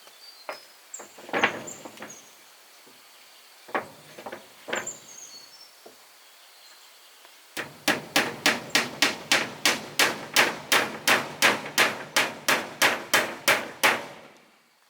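A hammer striking wood: a few scattered knocks, then a steady run of about twenty blows, roughly three a second, that stops about a second before the end.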